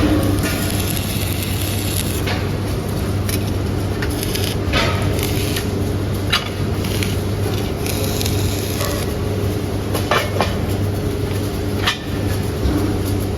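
Metalworking machinery running with a steady low hum, with sharp metal clanks and knocks every few seconds as heavy iron parts are handled and worked.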